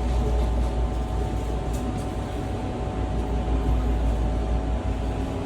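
Steady low rumble and hum inside the cabin of an Airbus A321neo parked at the stand during boarding, with a few faint steady tones running through it.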